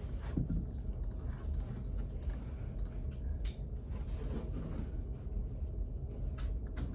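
Study-space room tone: a steady low rumble with a few faint, scattered clicks of sparse laptop-keyboard typing.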